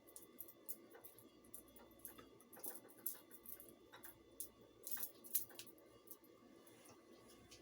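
Faint, irregular small clicks and light rustling of seasoned chicken being handled and mixed.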